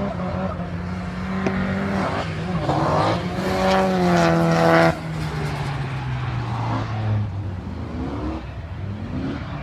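Drift car engine revved hard at high rpm, loudest for a couple of seconds near the middle and cutting off abruptly as the throttle is lifted. After that the engine note falls steadily in pitch as the car runs on round the circuit.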